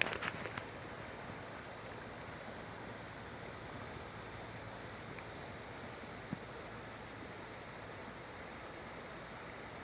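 Faint, steady riverside ambience: an even hiss with a constant high-pitched insect trill over it. A few light handling clicks right at the start and one small tick about six seconds in.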